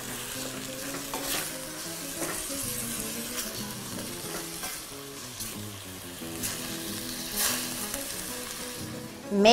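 Small cuttlefish frying in oil in a steel pot, sizzling and crackling as they are stirred with a wooden spoon; near the end white wine is poured in to deglaze. Soft background music with held notes runs underneath.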